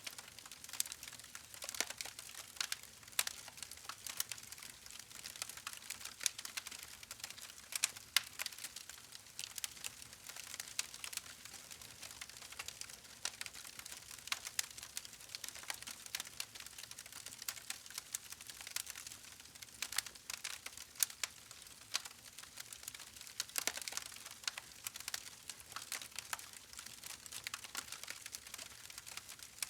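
Campfire crackling: a wood fire giving off frequent irregular pops and snaps over a soft steady hiss.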